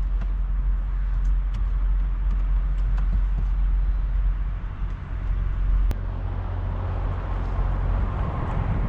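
A car's steady low engine and road rumble, with a single sharp click about six seconds in.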